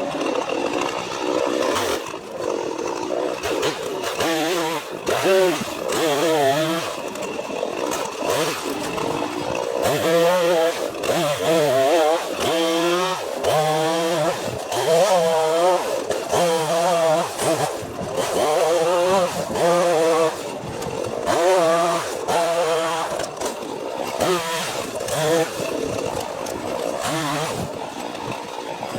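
Two-stroke gas chainsaw bucking a downed dead tree into firewood rounds. The engine pitch rises and sags again and again as the chain goes into the wood and comes out.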